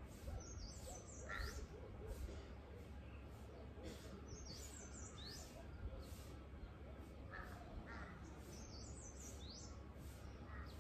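Birds calling faintly outdoors: a short high phrase of several quick notes, repeated three times about four seconds apart, with a few lower calls in between, over a steady low background rumble.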